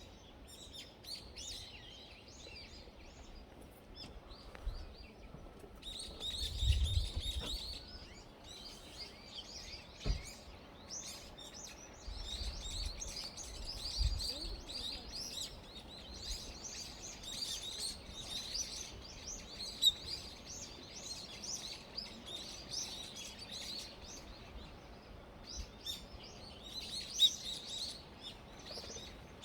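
Small birds chirping and twittering continuously in many short, high calls, several at once. A few low thuds break in around a third and half of the way through.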